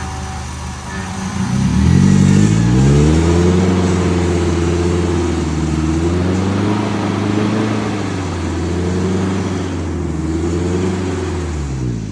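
An off-road 4x4's engine revs up about a second and a half in and is held at raised revs, rising and falling, as it drives at an obstacle, then drops back near the end.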